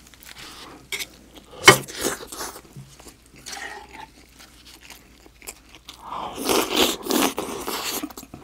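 Close-mic eating sounds of a person chewing spicy stir-fried octopus (nakji-bokkeum) with rice: biting and chewing, with a sharp click a little under two seconds in and a louder, longer stretch of chewing noise from about six seconds in.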